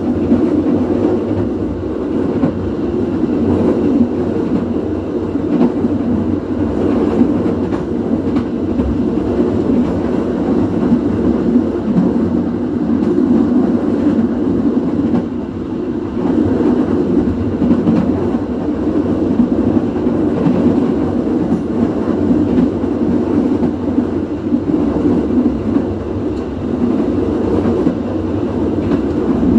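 Steady running noise of a commuter train rolling along the track, heard from the rear of the moving train: a continuous low rumble that swells and dips a little, with no clear wheel-on-joint rhythm.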